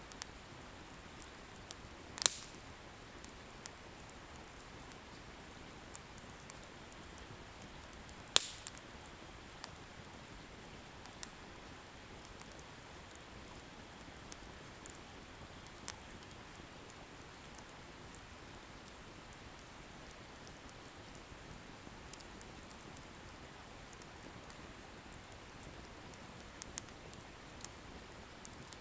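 Wood bonfire burning with a soft steady hiss and sparse small crackles, and two loud sharp pops of firewood bursting, about two seconds in and again about six seconds later.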